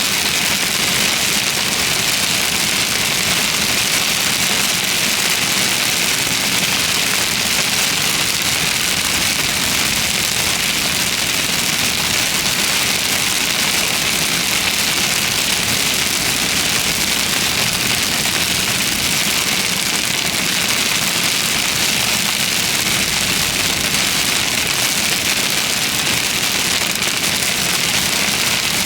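Heavy rain pelting a car steadily, with the car's engine and road noise underneath.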